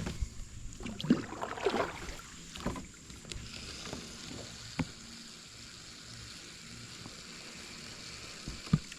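Creek water splashing and sloshing with some knocks over the first few seconds, then the steady rush of flowing water, broken by a sharp tap about five seconds in and a knock near the end.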